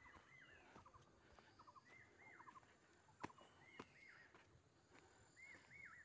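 Faint birdsong: a bird repeats a short phrase of two or three rising-and-falling whistled notes about every two seconds, with quicker lower notes between phrases. A sharp click comes about three seconds in, with a few fainter taps around it.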